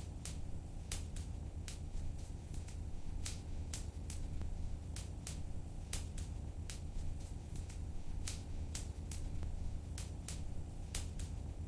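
Wood fire crackling in a fireplace: irregular sharp pops and snaps, often a few a second, over a steady low rumble.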